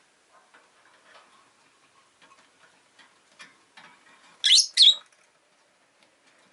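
Rosy-faced lovebird giving two short, shrill calls in quick succession about four and a half seconds in, among faint scattered clicking.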